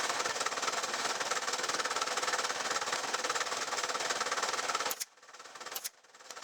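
A power tool running steadily, with a rough, clattering noise. It cuts off suddenly about five seconds in, with a sharp click and a brief restart.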